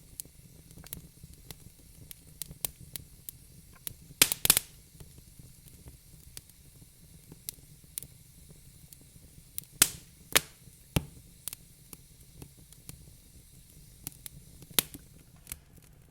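Wood fire crackling in a fireplace: scattered small pops and clicks, with a cluster of loud sharp pops about four seconds in, more around ten seconds and another near fifteen, over a low steady rumble.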